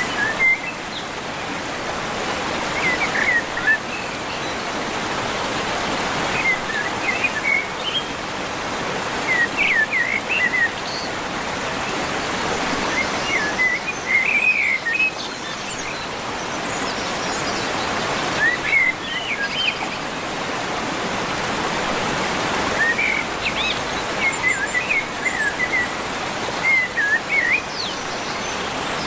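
Small birds chirping in short clusters of quick notes every few seconds over a steady rushing hiss like flowing water.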